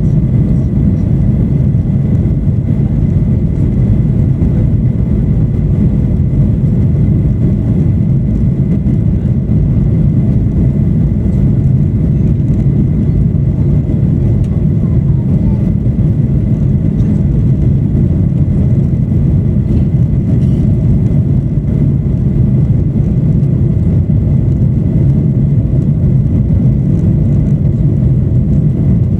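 Steady low rumble of a Boeing 737-800's engines and airflow, heard from inside the passenger cabin, with a faint thin whine above it.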